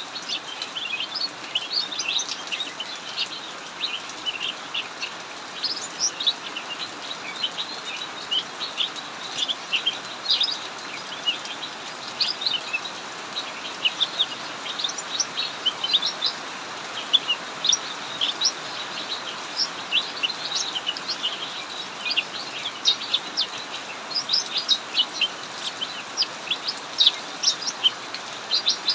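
Cucak mini songbirds chirping and singing continuously in quick, dense runs of high notes, over the steady hiss of heavy rain.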